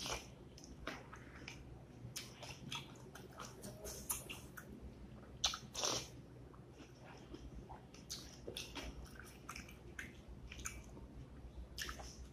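A person chewing and smacking a mouthful of rice with beef and lentils, eaten by hand, with wet squishes of fingers mixing rice on a plate. The sound is a string of short, irregular wet clicks, loudest about halfway through.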